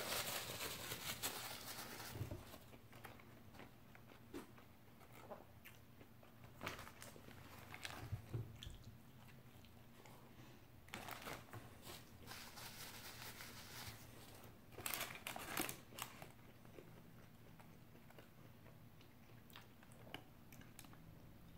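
Paper sandwich wrapper crinkling for about the first two seconds, then a person eating a fried chicken sandwich: bites and close-up chewing, with short crunchy clusters a few times.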